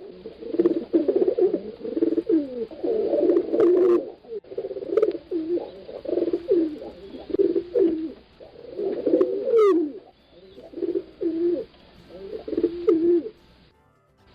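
Domestic pigeons cooing over and over, the low coos overlapping one after another, with a brief thin rising chirp about ten seconds in; the cooing stops shortly before the end.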